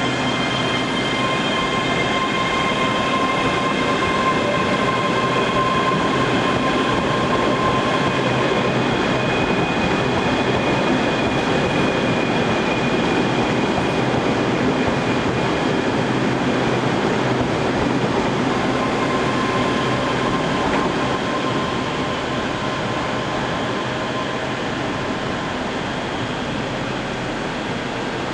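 A train running on the rails: a steady rush of wheel and track noise with several high, steady whining tones over it, which fade about halfway through and come back faintly later on.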